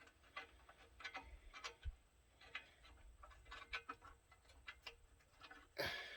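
Faint, irregular small clicks and taps of grille hardware being handled: metal nuts, bolts and brackets knocking lightly as they are worked onto the grille by hand. There is a short, louder rustle near the end.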